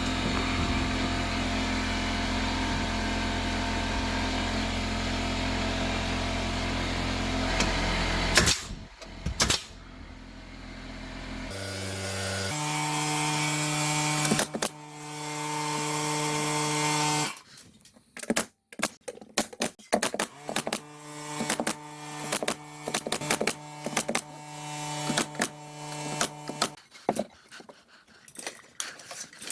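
Power tools at work on a building job: a motor runs steadily for about eight seconds and stops, then a lower-pitched tool runs for about five seconds. After that come many irregular sharp knocks with short runs of a tool between them.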